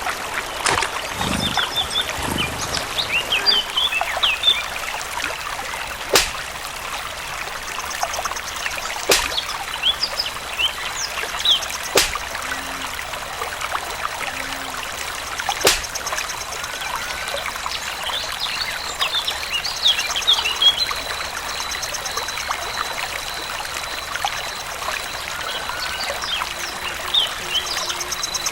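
Water trickling steadily, with many short high bird chirps throughout and a rapid buzzing trill coming and going three times. Four sharp clicks stand out, a few seconds apart, in the first half.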